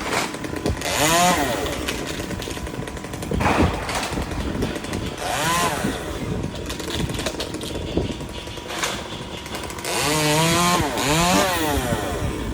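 Chainsaw engine running, its throttle opened and let back off several times so the pitch rises and falls in repeated revs.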